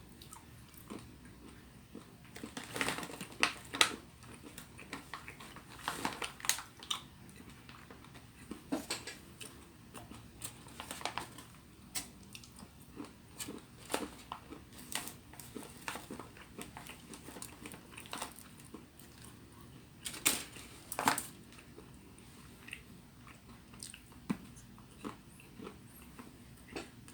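Close-up chewing and biting sounds of a person eating, with scattered crisp clicks and crunches in irregular clusters.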